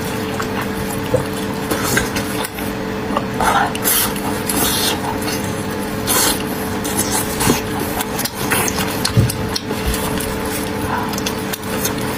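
Close-miked chewing and mouth sounds of someone eating, with wet smacking and short bursts scattered throughout over a steady background hum.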